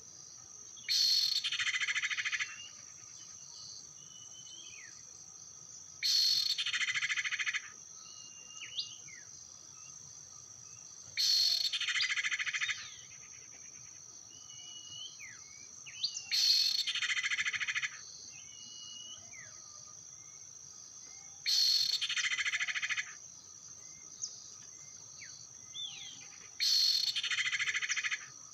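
A bird call lure repeating like a loop, about every five seconds, each burst lasting about a second and a half. Between the bursts there is a steady high insect drone and short, thin bird chirps.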